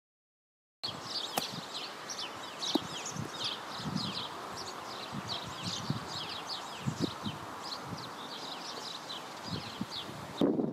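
Outdoor ambience of many small birds chirping busily, short quick downward chirps one after another, over a steady rustle of wind and leaves. A couple of sharp ticks sound early, and a louder low rush of wind comes just before the end.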